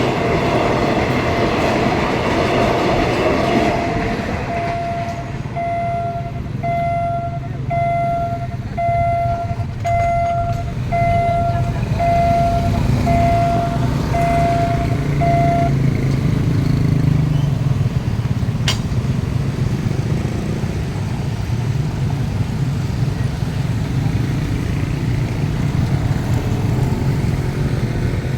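A train rolling past over the crossing for the first few seconds, then a level-crossing warning beeper sounding a steady electronic beep about once a second for roughly ten seconds before it stops. A low rumble of road-vehicle engines runs underneath, with a single sharp click later on.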